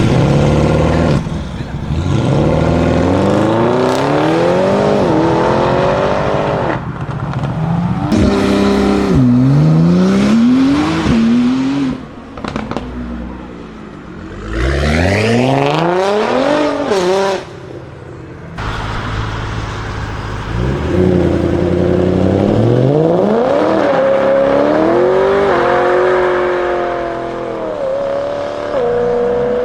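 Supercar engines revving hard under acceleration, their pitch climbing steeply and then dropping back again and again as they change up through the gears, in a run of separate passes. Near the end an engine note holds steadier with smaller rises.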